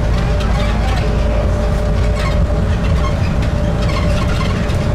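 Airport people-mover train running, heard from inside the car: a steady low rumble with a constant whine from its drive and a few light rattles.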